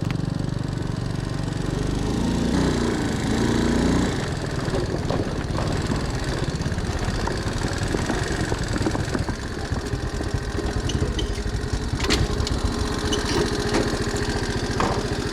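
Small motorbike engine running, its pitch rising and falling once about two to four seconds in, with a few sharp clicks later.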